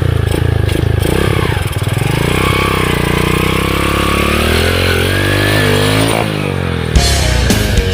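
Small underbone motorcycle engine running under load, its pitch climbing steadily for a few seconds and then falling sharply as the throttle comes off. Near the end a louder, more clattery sound cuts in.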